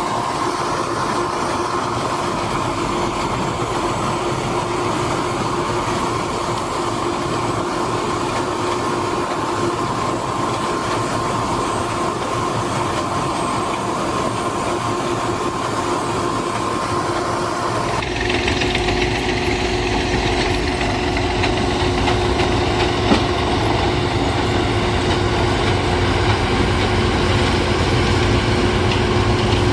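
Heizohack wood chipper working with a Massey Ferguson tractor, chipping branches: a steady mechanical whine over engine noise. About two-thirds of the way through the sound changes abruptly to a heavier, deeper engine rumble, with a single knock a few seconds later.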